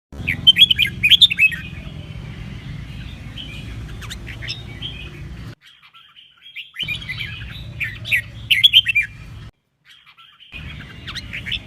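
Red-whiskered bulbul singing in quick, warbling phrases of rapid sliding notes. Several bursts of song are separated by pauses, over a steady low hum.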